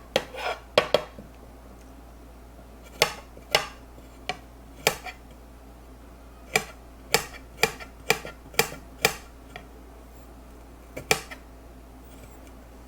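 Kitchen knife knocking against a cutting board while fresh ginger is peeled and cut: about fifteen sharp, irregular knocks, some in quick pairs, with gaps of up to two seconds.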